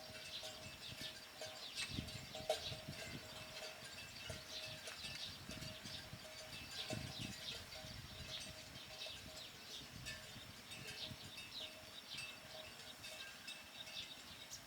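Small birds chirping again and again, with a faint steady hum and scattered low thumps and rustles.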